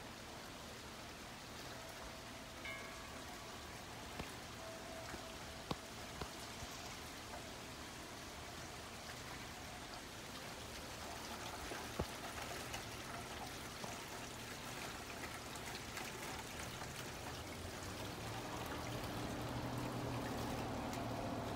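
Steady rain falling outdoors, with a few sharp drips tapping close by. The rain swells louder over the last few seconds.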